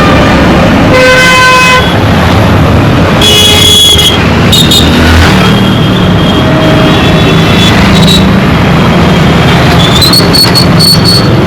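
Busy Indian road traffic: a steady dense rumble of engines with horns honking over it. One long horn sounds about a second in and another around three to four seconds, then a quick string of short, high beeps near the end.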